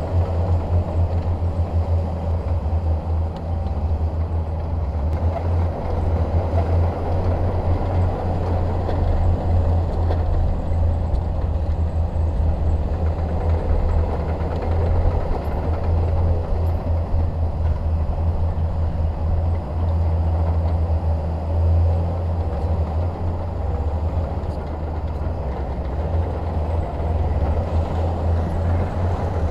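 Bulldozer's diesel engine running steadily with a deep, low rumble.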